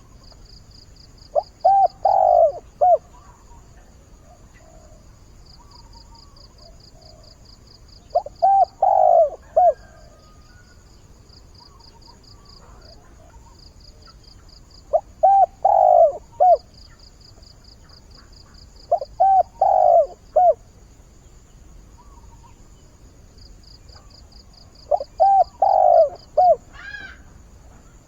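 Spotted dove cooing: five phrases of several low coos each, spaced several seconds apart, the call of a decoy dove meant to draw in wild doves. A pulsing insect trill runs behind it.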